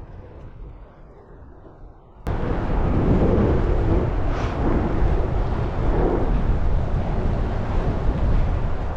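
Wind buffeting the microphone of a moving bicycle, heavy at the low end, over road noise. A quieter stretch of road noise gives way to it suddenly about two seconds in.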